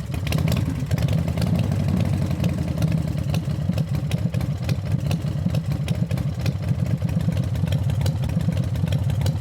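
Motorcycle engine idling steadily, with a deep, even run of firing pulses.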